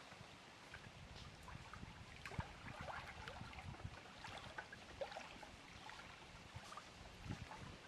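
Lake water lapping gently at the shore: faint, irregular little splashes and gurgles.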